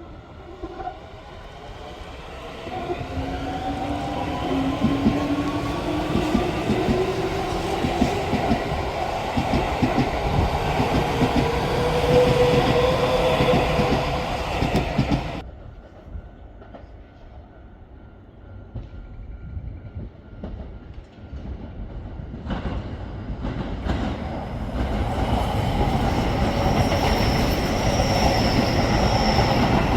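Keio Line electric trains passing. The first runs with a motor whine rising in pitch and wheels clicking over rail joints, then cuts off suddenly about halfway. After a quieter stretch a second train comes up loudly, with a high steady whine near the end.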